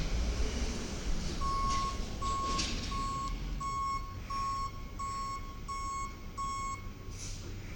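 Garbage truck's reversing alarm beeping eight times, about one and a half beeps a second, over the diesel engine running; the beeping stops near the end and a short hiss follows.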